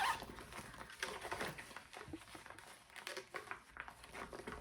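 Small toiletry items and their plastic packaging being handled and set down: a sharp knock at the start, then scattered light clicks and rustles.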